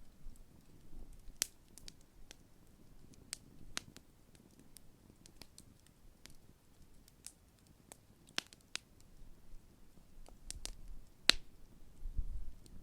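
Large wood campfire burning, crackling with irregular sharp pops over a faint low rumble; the loudest pop comes near the end.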